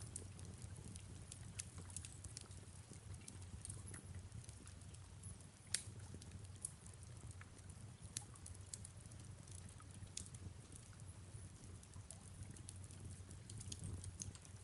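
Faint wood fire crackling, with scattered sharp pops, one louder about six seconds in, over soft steady rain.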